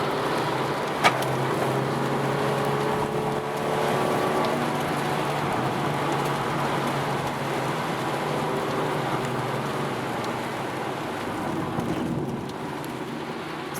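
Mazda Miata's four-cylinder engine running on track with its revs drifting up and down, over a steady hiss of tyres and spray on a wet surface. A single sharp click about a second in.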